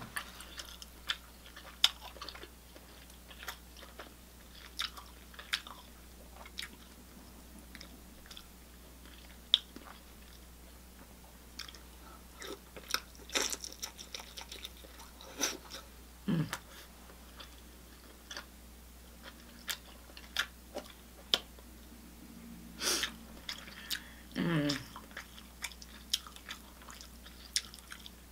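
Close-miked chewing of seafood-boil food, with scattered wet smacks and sharp clicks of the mouth. Twice, about 16 and 24 seconds in, a short low sound slides down in pitch.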